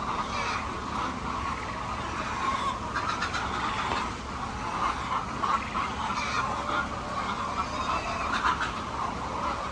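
A large flock of chickens clucking and calling together, many overlapping calls at once.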